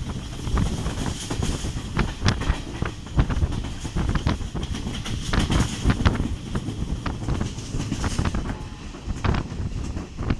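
Train heard from on board while running at speed: a steady low rumble of the carriage with sharp, irregular clacks of the wheels over the rail joints.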